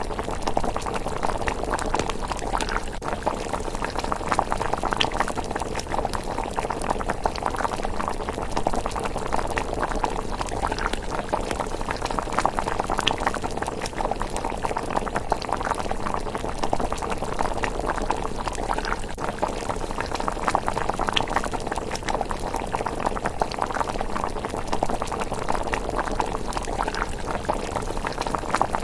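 Pot of rice porridge bubbling steadily at a simmer: a dense, even run of small pops and burbles.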